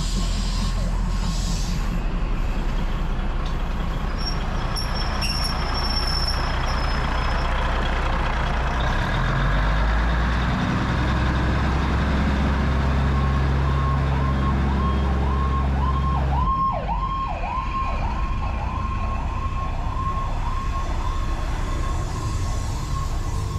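Slow passenger train passing very close: a diesel locomotive/railcar engine runs low and steady under the rolling cars and fades about two-thirds of the way through. From just past halfway a high squeal wavers down and up in pitch about twice a second.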